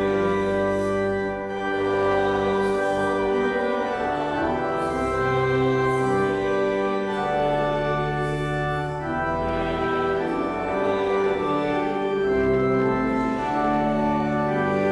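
Church organ playing a hymn tune in slow, sustained chords that change every second or two, the accompaniment for the closing hymn.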